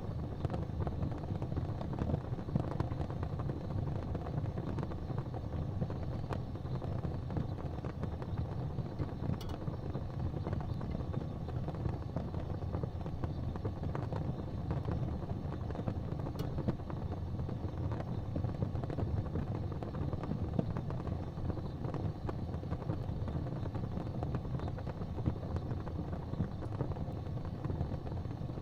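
Fireplace fire ambience: a steady low rumbling noise with a few sparse, faint crackles.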